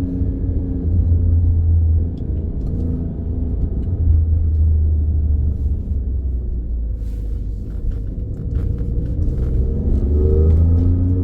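Alfa Romeo Stelvio Quadrifoglio's twin-turbo 90-degree V6 running with a deep, steady rumble, its note rising briefly near the end.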